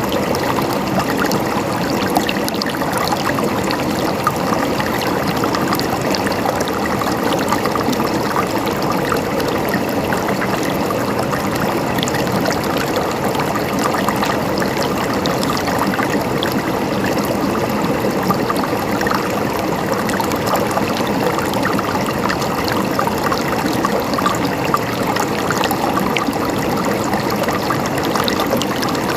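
Running water trickling and gurgling steadily, a dense, even splashing with no change in level.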